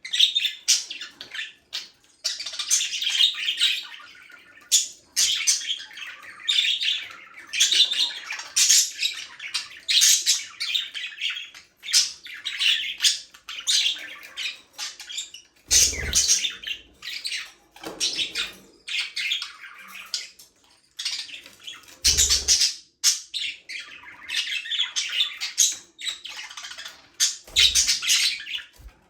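A flock of budgerigars chattering and warbling nonstop, with overlapping chirps and squawks. A few short low thumps come through, about a third, three quarters and nine tenths of the way through.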